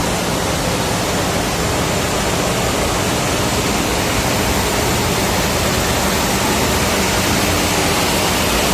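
Loud, steady machinery noise of a ship's engine room: a continuous even roar with a faint low hum underneath.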